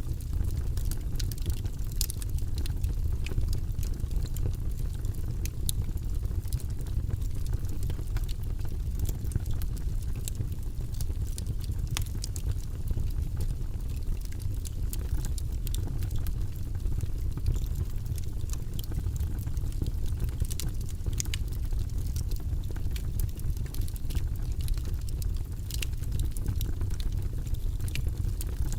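Wood logs burning in a fireplace: a steady low rumble of flame with scattered sharp crackles and pops throughout.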